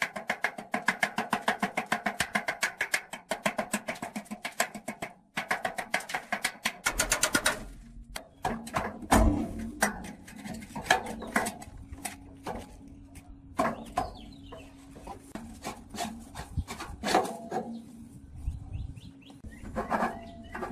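Rapid, evenly spaced metal strikes with a ringing tone for about seven seconds, then irregular scattered knocks and clatter.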